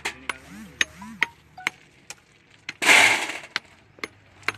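Metal hand tools knocking and scraping on gravelly road-base material: a string of sharp taps, and one loud scraping burst about three seconds in.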